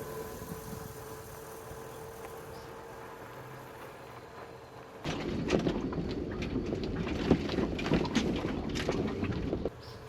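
A vehicle's engine running with a steady hum. About halfway, a sudden louder stretch of knocking and rattling starts, then stops abruptly near the end.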